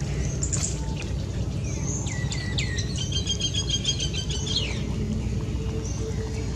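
Small birds chirping, with a quick run of repeated trilled notes near the middle, over a steady low rumble.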